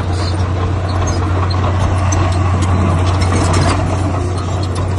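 Heavy diesel engine of earthmoving machinery running steadily with a strong low hum, with scattered light clicks over it.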